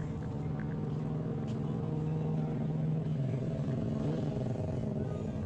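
Street traffic: a motor vehicle's engine running with a steady hum, its pitch dipping slightly about three seconds in.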